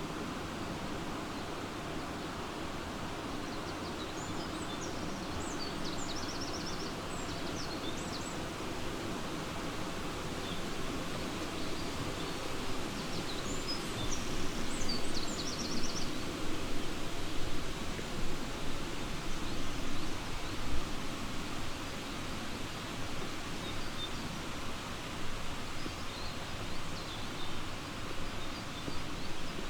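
Steady rushing of a flowing river under birdsong: two bursts of quick high chirps and trills, a few seconds in and again near the middle, with fainter calls later. From about halfway there is also irregular, louder rustling.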